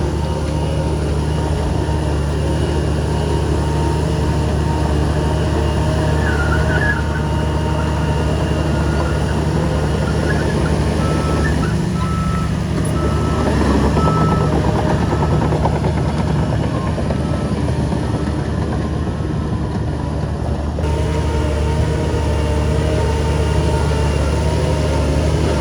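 Heavy diesel earthmoving machinery running steadily, with a reversing alarm beeping in a repeated high tone for several seconds midway.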